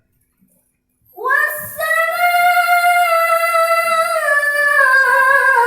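A woman reciting the Quran in the melodic tilawah style, holding one long drawn-out note that begins about a second in after a short silence. The note wavers slightly and sinks slowly in pitch.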